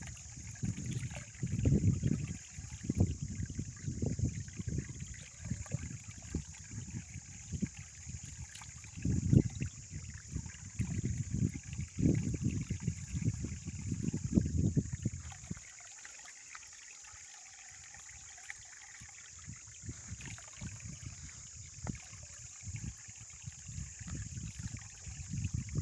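Water trickling and flowing at a natural spring or stream. For the first fifteen seconds or so it is overlaid by uneven low rumbling bursts, then it turns quieter.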